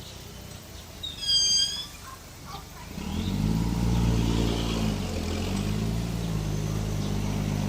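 A brief high-pitched squeal about a second in, then a heavy diesel engine of earth-moving machinery revs up at about three seconds and keeps running, its pitch dipping briefly partway through.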